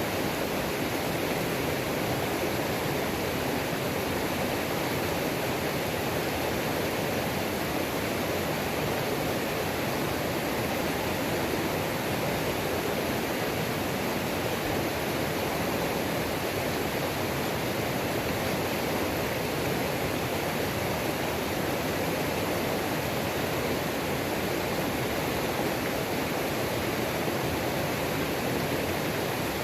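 Mountain creek waterfall pouring steadily: a continuous, even rush of falling and tumbling water.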